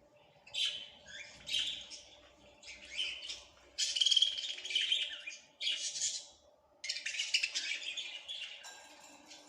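Small songbirds chirping and singing in a string of short, high-pitched bursts of song with brief gaps between them. A faint steady hum runs underneath.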